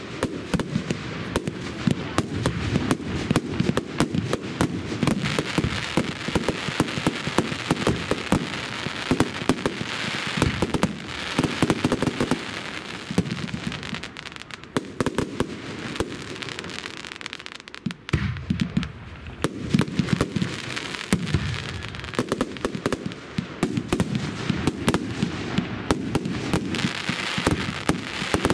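Fireworks display: a continuous barrage of sharp bangs and pops from bursting shells, easing briefly about two-thirds of the way through before building again.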